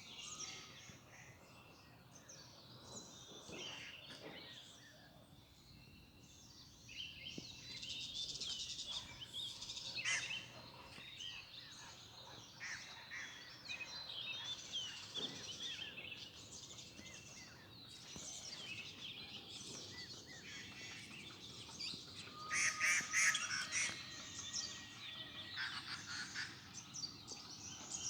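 Several songbirds chirping and calling, overlapping, with a dense burst of rapid chirps a little before the end, over faint steady outdoor background noise.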